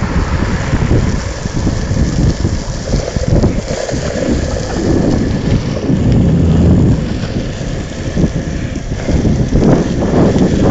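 Wind buffeting the microphone of a moving longboard rider, with a steady hiss of wheels rolling over wet pavement underneath.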